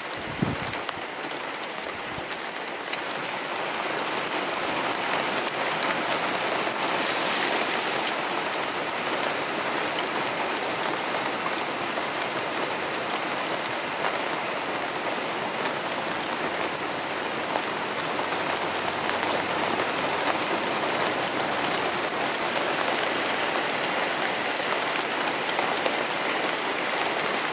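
Steady rain hitting a truck camper: a dense, even hiss of drops that grows a little louder about three to four seconds in. A single low thump sounds right at the start.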